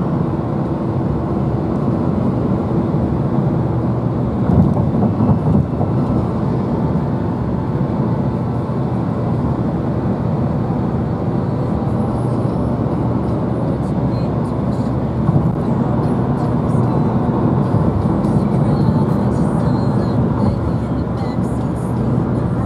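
Steady low road and engine noise of a moving vehicle, with a few small bumps in level.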